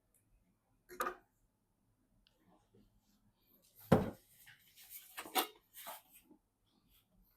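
Handling noise: a short knock about a second in, a louder sharp thump about four seconds in, then rustling and scraping for about two seconds.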